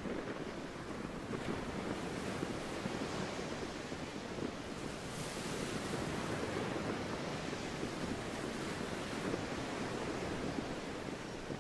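Sea waves washing steadily, with wind blowing.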